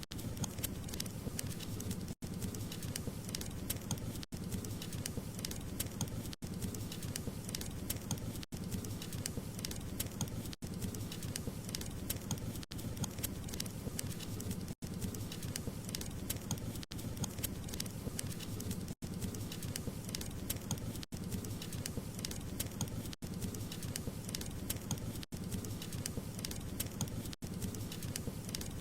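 Wood fire crackling: a steady low rumble dotted with many small sharp pops and snaps. Very brief gaps in the sound come about every two seconds.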